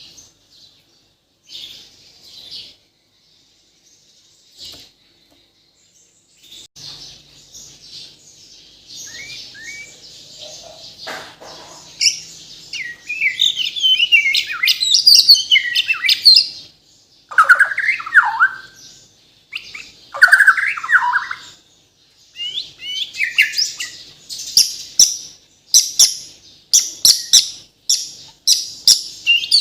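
Bornean white-rumped shama (murai batu) singing. After a few seconds of only scattered faint notes, a long, varied song builds: rich down-slurred whistled phrases, then runs of quick sharp notes.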